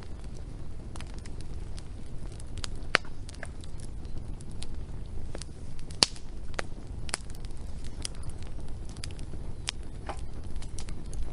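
Wood fire burning with a low steady rumble and irregular sharp crackles and pops, the loudest pop about halfway through.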